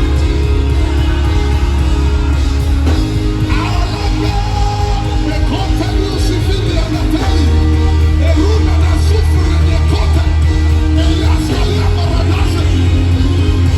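Live gospel worship music: a band with a heavy, sustained bass and held chords under singing voices, with shouts from the crowd.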